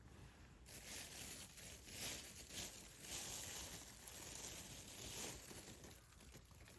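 Wood campfire crackling and hissing, growing louder about a second in and easing off after about five seconds.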